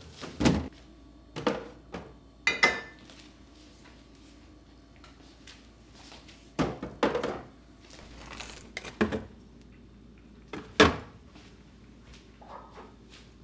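Scattered knocks and clatters of kitchenware and cupboard or drawer fittings being handled and set down, about half a dozen separate hits. There is a short ringing clink about two and a half seconds in, and the sharpest knock comes near the end.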